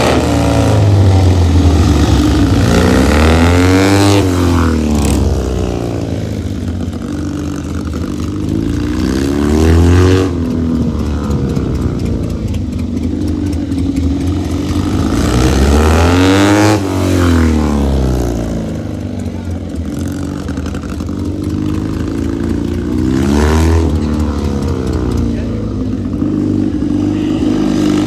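Rickman Metisse motorcycle engine running and being revved four times, about six seconds apart, each rev rising and falling back.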